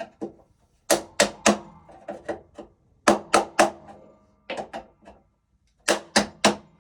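Sharp metallic taps on a steel electrical panel box in four quick runs of about three strikes each, with a short ring after each hit: a tool striking the knockouts to pop them out.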